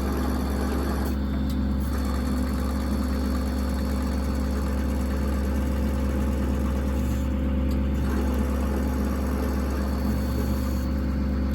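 Steady, unchanging drone of the service truck crane's hydraulic drive running as the crane swings side to side.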